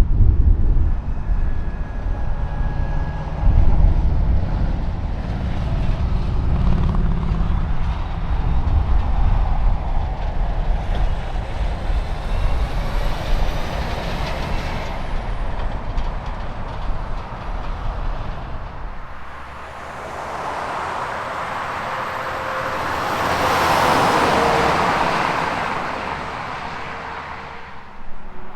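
Highway traffic with semi trucks going by: a heavy diesel truck rumble dominates for most of the first twenty seconds. Then a passing vehicle's tyre and wind noise swells and fades away.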